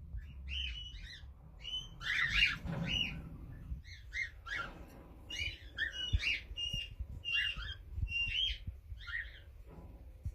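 Pet budgerigars and cockatiels chirping and squawking: a string of short, overlapping calls in quick succession, some with brief whistled notes.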